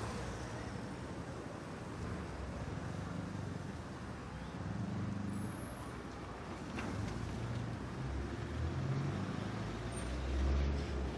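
City street traffic: a steady wash of passing vehicles with low engine rumble that rises and falls, swelling loudest near the end.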